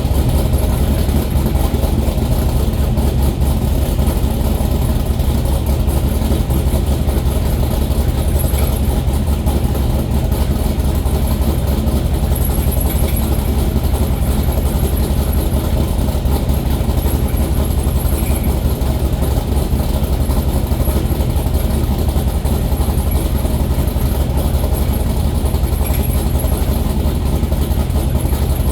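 Engine idling steadily just after a cold start, with a rapid rattle like a drum roll.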